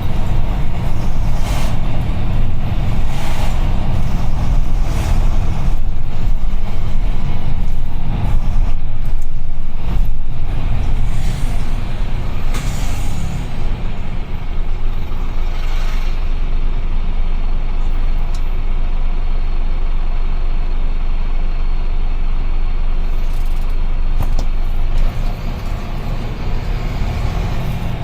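UD Trucks Quon heavy truck on the move: a steady low engine rumble with road noise, and short hissing bursts now and then, several close together near the start.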